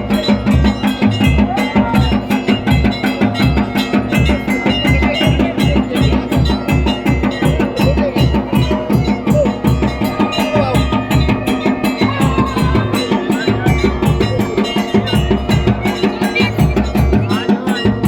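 Music of fast, even drumming with other percussion, and a steady held tone sounding over the beat.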